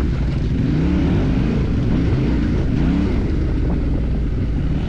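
Off-road motorcycle engine running under load, its revs rising and falling repeatedly as the throttle is worked over rough ground.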